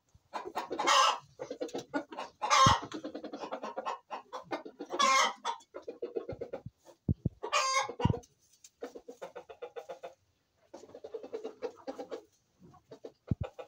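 Domestic chickens clucking in rapid runs of short notes, with several louder calls standing out.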